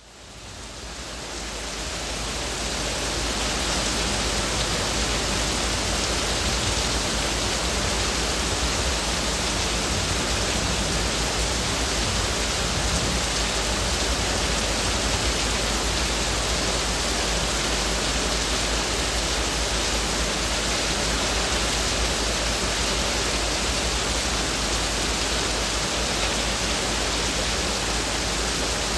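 Heavy rain falling on leaves: a dense, steady hiss with no single drops standing out, fading in over the first few seconds.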